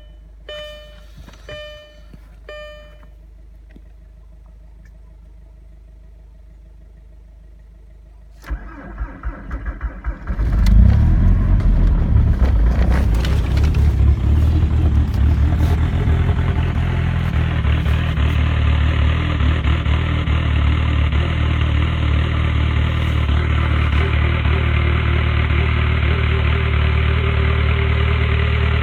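Four short electronic chimes about a second apart, then a straight-piped Volkswagen-group TDI turbo-diesel engine cranks on the starter for about two seconds, catches and settles into a loud, steady cold-start idle. A faint rising whistle from the turbo spooling comes in near the end.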